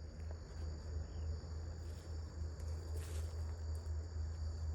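Outdoor insect chorus: a steady, even, high-pitched chirring that runs without a break, over a low steady rumble.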